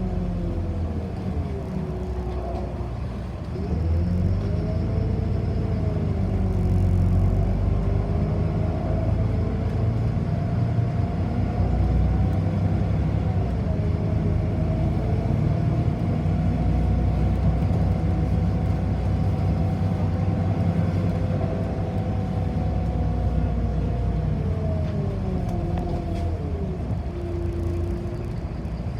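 Inside a city bus under way: a steady low rumble from the road and drivetrain, with a motor whine. The whine rises in pitch about four seconds in as the bus speeds up, holds through the run, then falls near the end as the bus slows.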